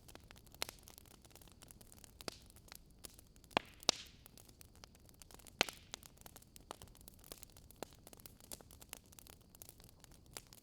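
Wood fire crackling: irregular sharp pops and snaps over a faint steady hiss, with a few louder pops about three and a half to four seconds in and again near six seconds.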